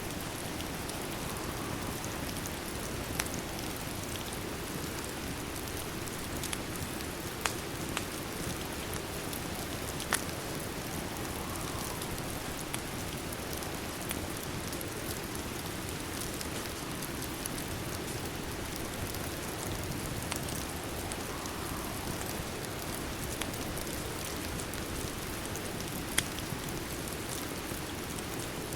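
Steady rain falling, an even hiss, with a few sharp isolated clicks scattered through it.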